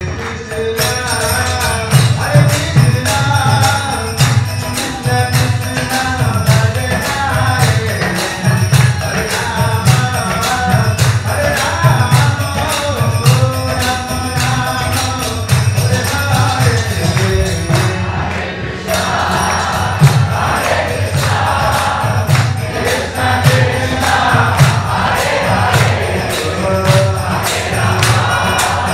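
Devotional chanting music: group singing over a steady drum beat and jingling percussion. About eighteen seconds in the percussion drops out briefly, then the singing comes back fuller.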